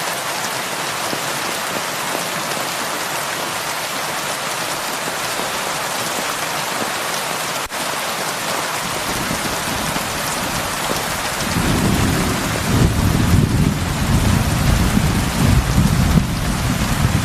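Heavy rain falling on a roof, a steady hiss. About ten seconds in, a low rolling rumble of thunder builds and keeps going.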